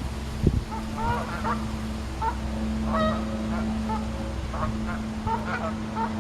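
A flock of Canada geese honking, many short calls overlapping several times a second.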